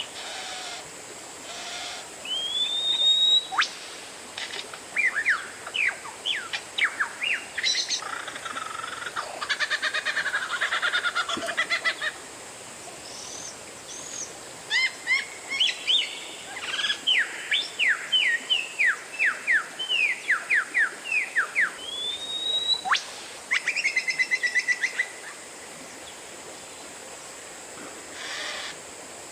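Oriental magpie-robin singing a loud, varied song: clear rising whistles, quick series of sharply falling notes, and two rasping trill passages, one about a third of the way in and one shortly before a brief pause near the end.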